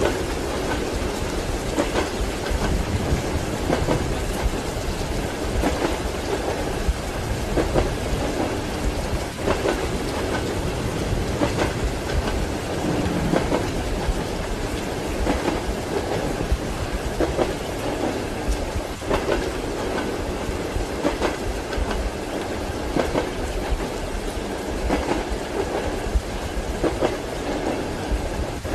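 Train wheels clattering rhythmically over rail joints, with a steady patter of rain.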